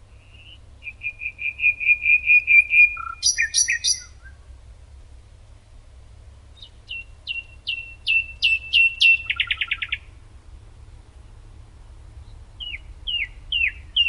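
A songbird singing three short songs. The first is a rapid run of even notes ending in a high flourish about four seconds in. The next two are series of quick downward-sweeping notes, each ending in a fast rattle, with the last starting near the end. A faint low hum runs underneath.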